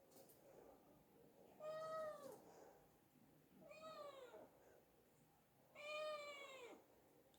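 Domestic cat meowing three times, about two seconds apart; each meow holds its pitch and then drops at the end.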